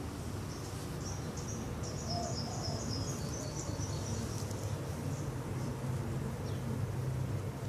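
Rapid, high chirping: a run of short notes lasting about three seconds, over a steady low rumble.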